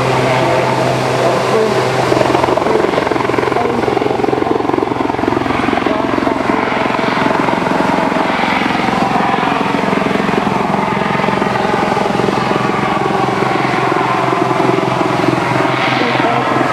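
Helicopter flying a display, its rotor beating in a steady, rapid rhythm over the drone of its engine.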